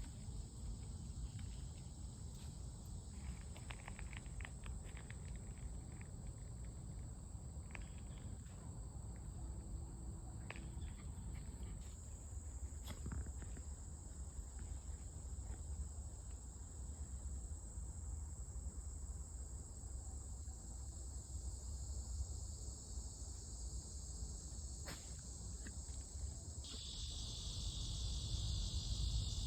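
Insects chirring in a steady, high-pitched trill; near the end a second, lower insect trill joins in. A low rumble sits underneath, with a few faint clicks in the first half.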